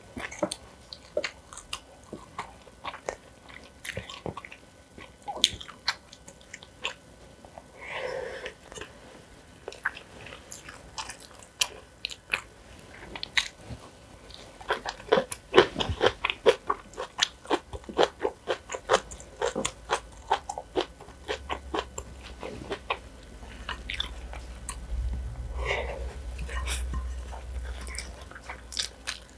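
Close-miked eating: chewing and crunching food with wet mouth clicks, with a dense run of crunchy bites about halfway through.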